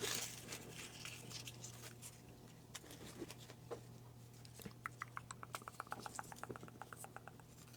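Faint rustling and clicking of hands digging through paper name slips in a hat, with a quick even run of about ten ticks a second in the second half.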